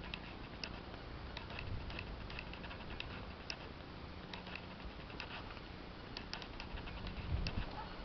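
Water dripping after a downpour: light, irregular ticks, several a second, over a faint steady hiss.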